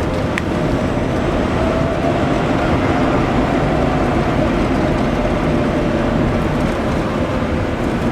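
Renault Twizy being driven: a faint electric-motor whine that rises slightly, then slowly falls, under steady road and wind noise.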